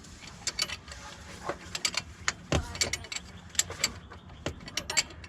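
Irregular metallic clicks, taps and clanks of hand tools and parts being handled during engine repair work, over a low background hum.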